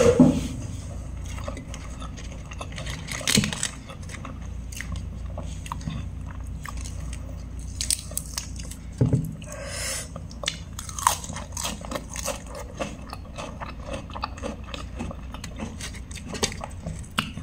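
A person chewing and crunching at close range, biting into crisp lettuce leaves and curried chicken, with scattered short clicks and smacks of the mouth.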